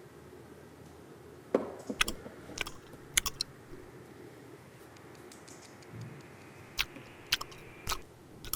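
Irregular light clicks and taps, about eight spread over several seconds: small plastic toy pieces knocking together as they are handled.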